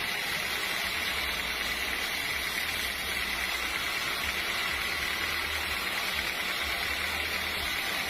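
Sawmill machinery running steadily, with a constant low hum and a steady high whine.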